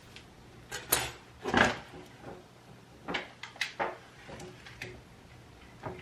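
Small hard objects being handled and set down: a scatter of sharp clicks and knocks, the loudest two in the first second and a half and a quicker cluster around three to four seconds in.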